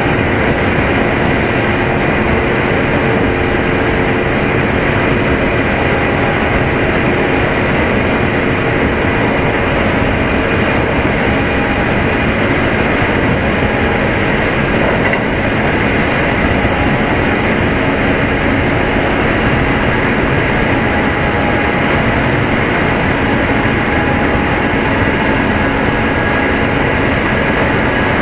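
A Kintetsu 2610 series electric train running at a steady speed, heard from inside motor car Mo 2616: a constant rumble of wheels and running gear with a few steady whining tones.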